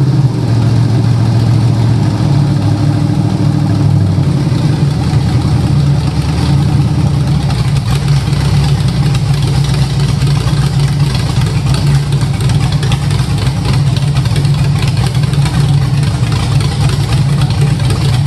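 Junkyard 5.3-litre LS V8 with a Sloppy Mechanics stage 2 cam and valve springs, running naturally aspirated through turbo headers on a base tune during its first start. It idles loudly; the idle speed shifts in the first few seconds, then holds steady.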